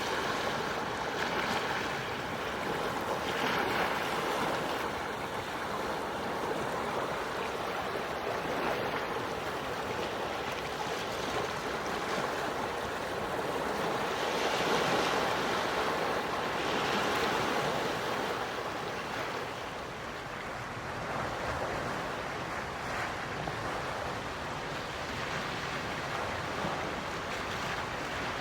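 Gentle sea waves washing onto the shore, swelling and easing every few seconds, with the largest surges about halfway through.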